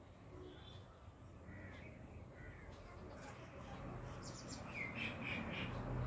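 Faint bird calls: a few short calls, more of them close together in the last two seconds, over a low background hum.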